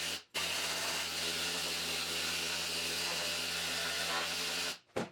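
Pneumatic needle scaler running steadily against the rusty steel frame of a Triumph TR6, chipping off rust and scale. The noise cuts out briefly twice, once just after the start and once near the end.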